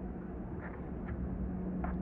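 Steady low rumble with a constant low hum, unchanging throughout.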